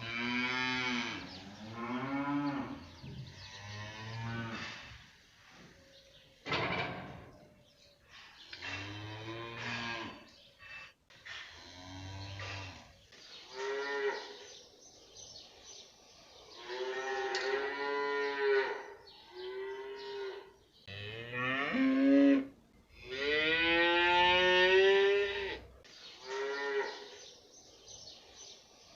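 Cattle mooing: a series of separate calls, some short and some drawn out, with the longest and loudest call near the end.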